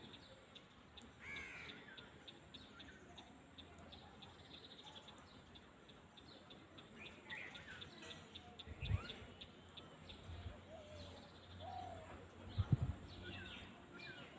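Birds calling over an open field, short rising and falling calls scattered through, with a faint rapid ticking above them. Two brief low thumps stand out, about nine and thirteen seconds in.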